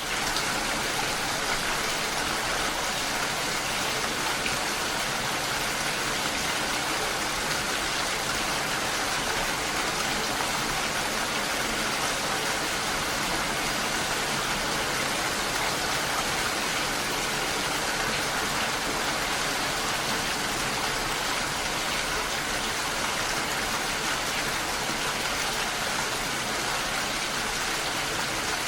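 Steady rain, an even, dense hiss with no single drops standing out.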